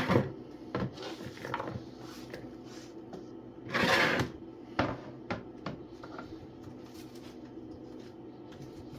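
Kitchen handling sounds: irregular knocks and clunks of utensils, dishes or cabinet doors, with a brief louder scrape about four seconds in, over a steady low hum.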